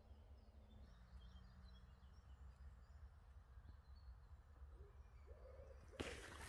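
Near silence with faint, high bird chirps in the first few seconds, then a sudden loud rustle near the end.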